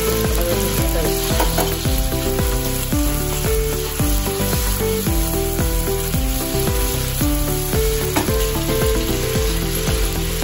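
Chopped green bell peppers sizzling as they fry in a pan, stirred with a spatula near the end. Background instrumental music with a repeating bass line plays over the sizzle.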